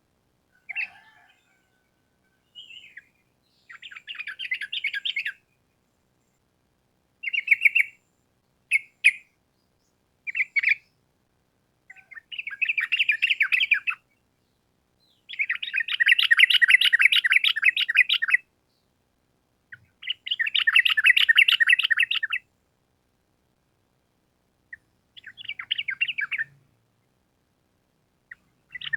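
Yellow-vented bulbul (trucukan) song: about nine bursts of fast, chattering trills, the longest about three seconds, with short silent pauses between.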